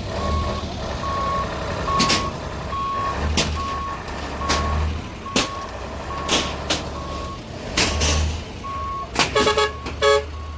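Heavy vehicle's reversing alarm beeping steadily, a little under twice a second, over a low diesel engine rumble, with scattered sharp knocks and bangs and a quick run of pitched pulses near the end.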